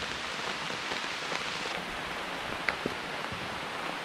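Steady rain falling, with a few louder single drops landing close by, the sharpest nearly three seconds in.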